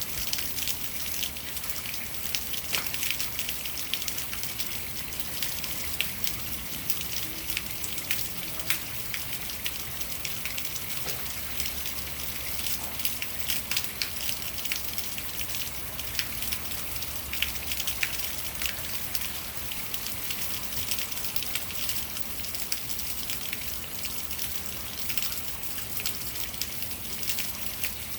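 Rainwater running and splashing down a rain chain: a steady, dense patter with many irregular sharp drips and splashes.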